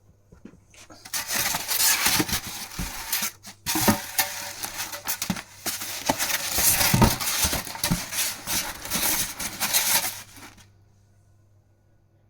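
Flat-pack display cabinet parts and packaging being handled: a continuous rustle and clatter with many sharp clicks, beginning about a second in, pausing briefly, then stopping a couple of seconds before the end.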